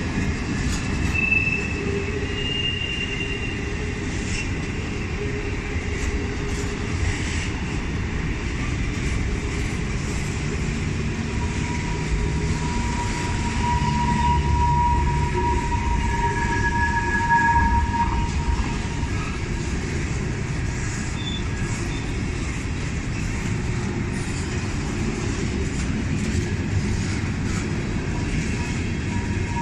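Freight train cars rolling past with a steady rumble and scattered wheel clicks. Wheel squeal rises out of it: a short high squeal a second or two in, and a longer, lower squeal around the middle.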